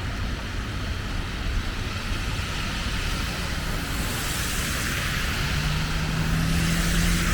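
City street traffic: a steady low rumble of vehicles, with tyre hiss swelling as cars pass. A steady engine hum joins about five and a half seconds in.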